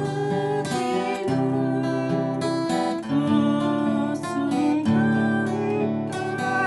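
Acoustic guitar played as a waltz-time arpeggio with a pick, one note at a time over held bass notes.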